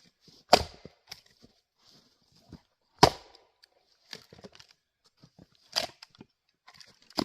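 Adirondack single-bit axe striking and splitting firewood rounds on a chopping block: three sharp cracks about two and a half seconds apart, a fourth just at the end, with small knocks of wood between them.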